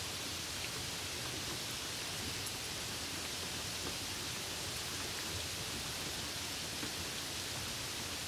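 Steady rain falling on a puddle, an even hiss of many drops with a few faint single drips standing out.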